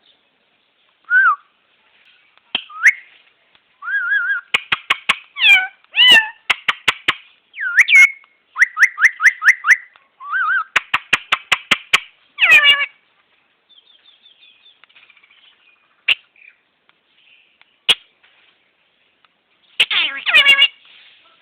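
Parrot calling in bursts: gliding whistles, sharp chirps and fast runs of repeated notes at about five a second, with short pauses between bursts and the loudest calls near the end.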